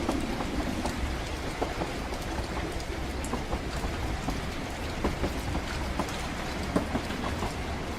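Train-ride ambience: the steady low rumble of a train carriage in motion, with rain pattering and many scattered drop-like ticks over it.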